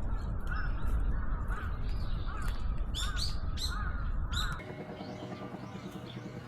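A crow cawing over and over, roughly two caws a second, over a low rumble. About four and a half seconds in, the calls and rumble cut off and steady background music takes over.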